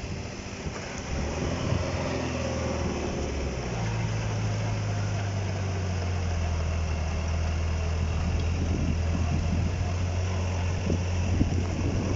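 UAZ off-road vehicle's engine running, its revs rising in two steps about one and four seconds in, then held steady at the higher pitch.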